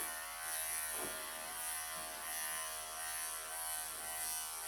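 Wahl electric pet clippers running with a steady buzz, shaving close under the mats in a Persian cat's dense coat.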